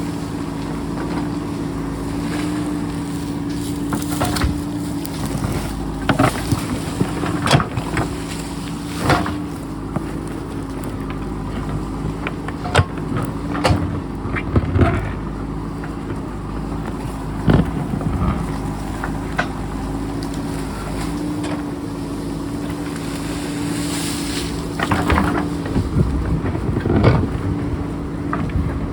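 JCB backhoe loader's diesel engine running steadily under load while it digs in rocky ground. Repeated sharp knocks and scrapes of the steel bucket against rock come in clusters, the loudest near the middle and again near the end.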